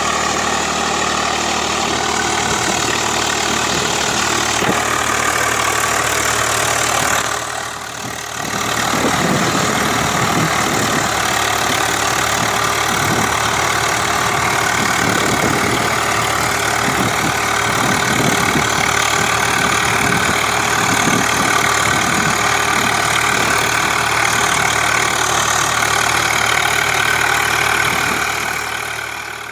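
Swaraj 744 FE tractor's three-cylinder diesel engine running steadily. It dips briefly about eight seconds in, then runs on with a rougher, pulsing low rumble, and fades out at the end.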